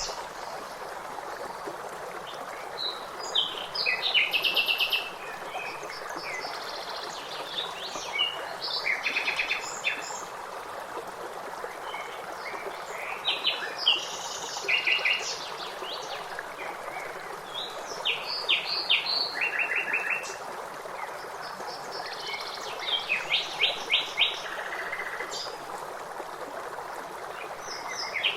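Songbirds chirping in quick repeated phrases every few seconds over the steady rush of running water.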